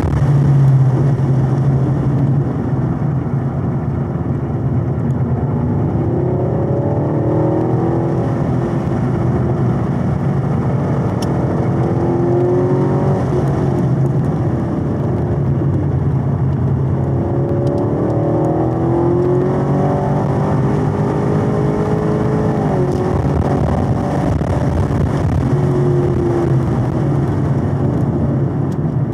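2022 Camaro SS 1LE's 6.2-litre LT1 V8 running hard at around 5,000 rpm, heard from inside the cabin over road and tyre noise. The engine note rises and falls as the ten-speed automatic changes gears through the corners.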